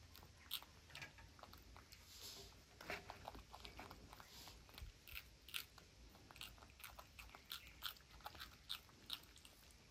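Faint crunching and chewing of fresh green pea pods by baby macaques, a scatter of small, irregular crisp clicks.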